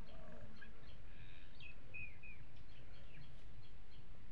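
Small birds chirping repeatedly, with a few short falling calls about two seconds in, over a steady low rumble.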